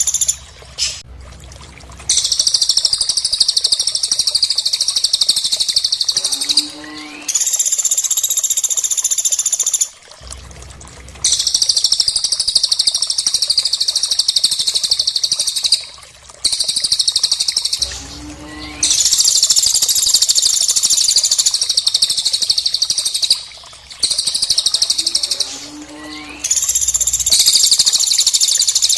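High-pitched, rapid trilling birdsong of cililin and pelatuk birds, played as masteran song for training cage birds. It comes in long unbroken bouts of several seconds with short pauses between them, and a short rising note near some of the restarts.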